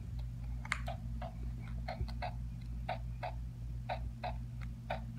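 A run of light, fairly regular clicks, about three a second, from a child's toy doctor's kit instrument being worked during a pretend checkup.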